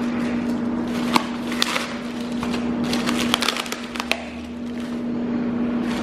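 Sporadic sharp clicks and rustling of parts and packaging being handled, over a steady background hum.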